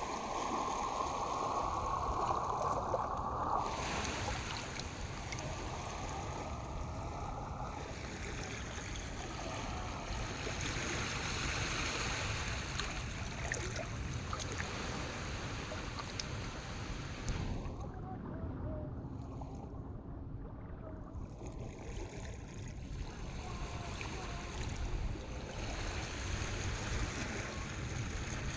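Harbor water washing and lapping steadily, a continuous wash with a low rumble underneath.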